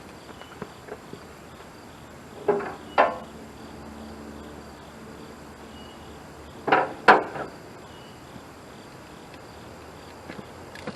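Hand tools clanking against metal: two pairs of sharp knocks about four seconds apart, the first pair leaving a short metallic ring, with a few light ticks between.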